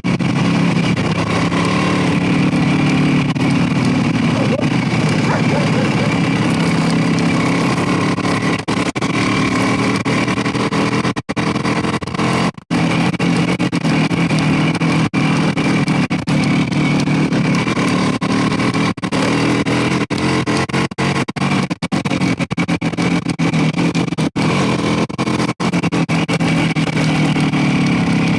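Motorcycle engine running steadily under way, loud and even, with many very brief dropouts.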